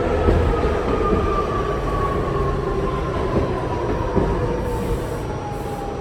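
R68 subway car running on the rails: a steady rumble under a whine that falls slowly and evenly in pitch.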